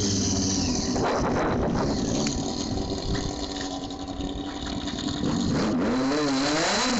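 Stunt motorcycle engine running and revving, its pitch swinging up and down repeatedly with the throttle near the end.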